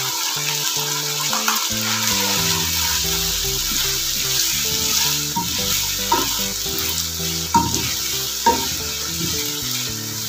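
Boneless chicken and peas sizzling in a hot non-stick wok while being stirred with a spatula, freshly mixed with chili garlic sauce as they fry. A steady sizzle with the spatula scraping through, and a couple of louder strokes about seven and eight seconds in.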